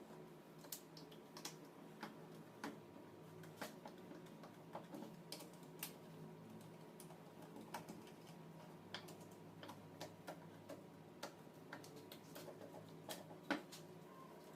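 Faint, irregular light clicks and taps from handling small alternator parts and hand tools, with a louder click near the end, over a low steady hum.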